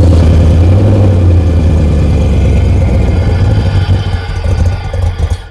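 Audi A8 D2 V8 engine running just after a start attempt, its level sagging and wavering over the last second before it stops abruptly. The engine will not start normally, a fault the mechanic thinks most likely lies in the vacuum system or the air-flow meter.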